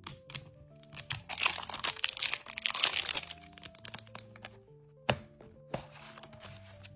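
Background music over toy packaging being crinkled and torn open for about two seconds, then a single sharp crack about five seconds in.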